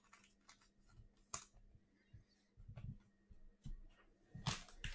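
Faint, scattered clicks and light taps of trading cards being handled, with a few sharper taps and a busier patch near the end.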